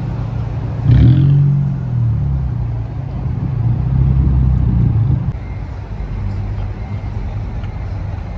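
Car engine and exhaust running with a deep, steady rumble. It rises sharply about a second in and runs louder again from about three and a half seconds, then drops back to a steadier, quieter run a little after five seconds.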